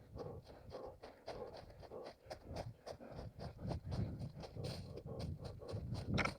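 A running orienteer's quick footsteps with heavy panting breath, the steps coming several times a second with a sharper one near the end.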